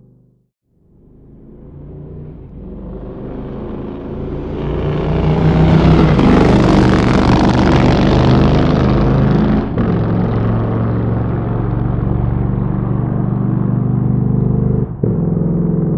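Motorcycle engine that swells in from silence over about five seconds, then runs loud and steady, with two brief dips in level.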